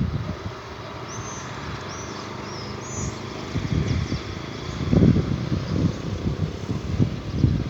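Wind buffeting the microphone in uneven gusts, strongest about five seconds in, over a steady outdoor hiss. A bird gives four short high chirps between about one and three seconds in.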